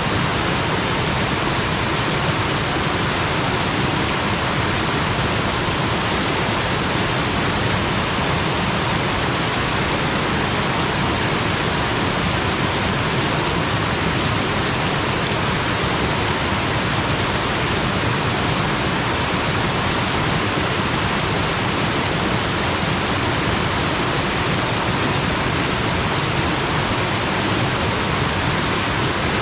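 Small waterfall pouring between rocks: a steady, unbroken rush of falling water.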